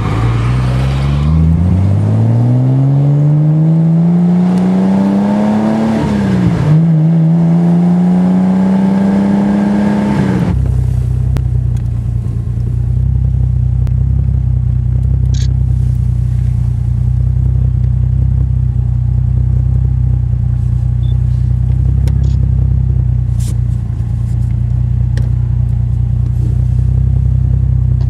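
Car engine accelerating under load, its pitch climbing, then dropping at a gear change about six seconds in and climbing again. About ten seconds in this gives way abruptly to a steady low engine hum, like cars idling.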